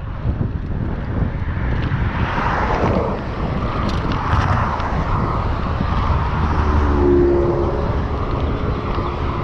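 Wind rushing over a GoPro Hero 7's microphone on a moving bicycle, with a vehicle passing about two to three seconds in, its sound falling in pitch as it goes by.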